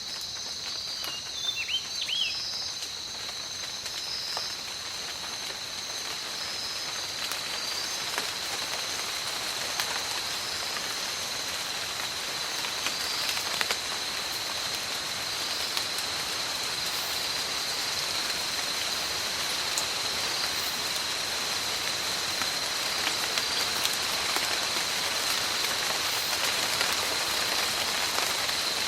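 Rain falling steadily in a tropical forest, slowly growing heavier, over a steady high-pitched drone. There are a few short chirps in the first couple of seconds.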